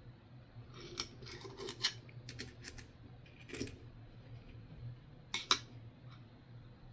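Light metallic clicks and clinks of nickels being handled, a scattering of sharp taps starting about a second in, with two sharper clicks near the end.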